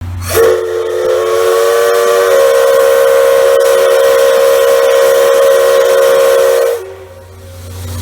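Steam locomotive whistle blowing one long, loud blast of about six seconds: a steady chord of several tones over a hiss of steam. It cuts off near the end, leaving a low hum.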